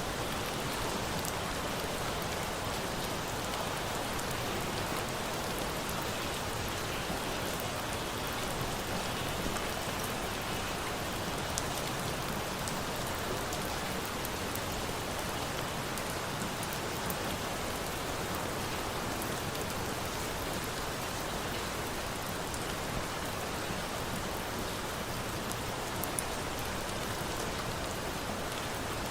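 Steady rain falling, a dense even patter with a few sharp ticks scattered through it.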